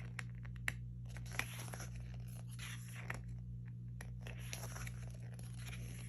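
Album photobook pages being turned and handled: irregular paper rustling with a couple of sharp clicks in the first second and a half, over a steady low hum.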